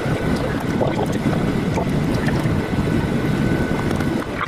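Cabin noise inside a Boeing 737-800 airliner: its CFM56 engines and the airframe give a loud, steady low noise with small irregular bumps and a couple of faint steady tones above it.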